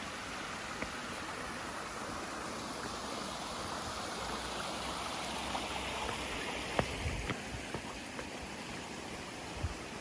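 Steady rush of flowing water, with a few faint clicks in the second half.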